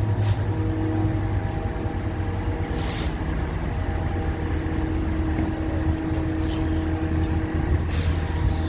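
Metrolink commuter train running: a steady low rumble with a constant humming tone, and short hisses of air near the start and about three seconds in.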